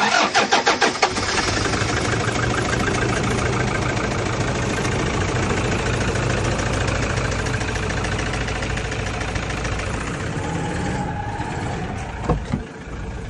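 Toyota 1KD-FTV four-cylinder turbodiesel cranking and catching in the first second, then idling with a rattle: the fault that the owner is told to take to the dealer. Two short sharp knocks come near the end.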